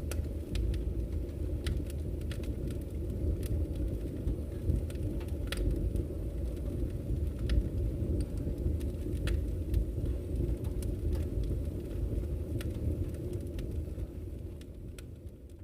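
Wood fire burning in a fireplace: a steady low rumble of flames with scattered sharp crackles and pops from the burning logs, fading out near the end.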